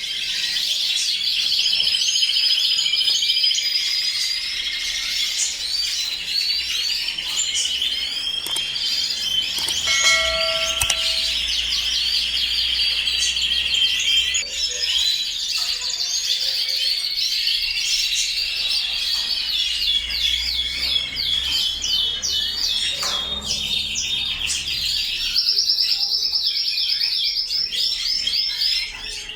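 A room full of colour canaries singing and chirping together: many overlapping rolling trills and warbles, continuous.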